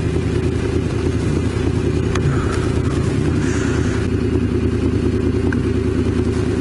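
Honda VFR750's V4 engine running steadily as the motorcycle is ridden, with wind rush on the helmet camera's microphone.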